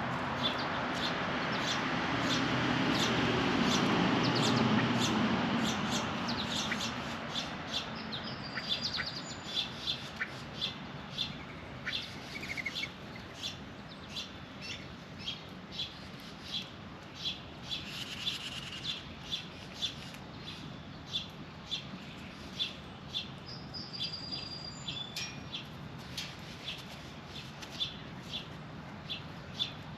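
Small birds chirping repeatedly with short, high calls, one or two a second, with an occasional longer whistled note. A broad rushing noise swells and fades over the first few seconds.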